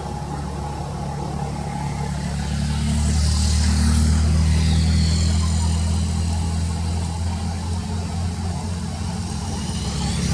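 A motor vehicle's engine running close by, a steady low hum that swells to its loudest about four seconds in, with a rushing swish as it goes past.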